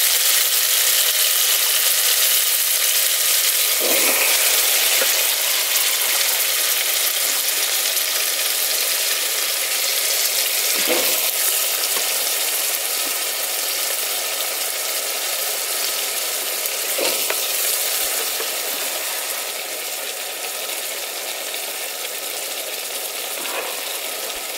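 Tomato sauce with fresh peas frying in an aluminium pot, a steady high sizzle, with a wooden spoon knocking and scraping against the pot a few times. The sizzle grows softer over the last few seconds.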